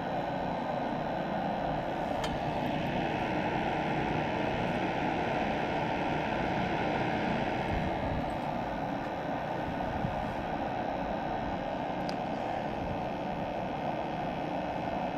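A roughly 25-year-old gas furnace running steadily with its burners firing: an even rushing noise of burner flame and fans, with a couple of faint clicks.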